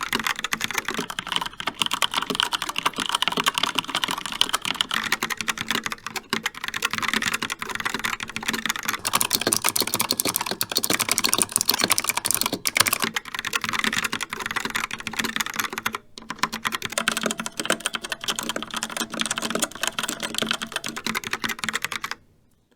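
Continuous fast typing on a Logitech POP Keys mechanical keyboard, a dense run of key clicks with short lulls about six and sixteen seconds in, then a sudden stop just before the end.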